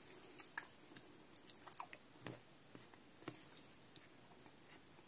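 A person chewing a mouthful of tender food close to the microphone: faint soft clicks and smacks, thinning out near the end.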